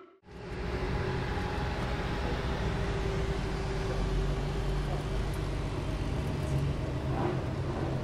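Ferrari Enzo's V12 engine idling steadily with a deep, even rumble.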